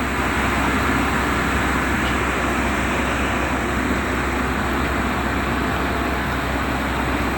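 Boat engine running steadily: a low, even drone under a constant rushing noise.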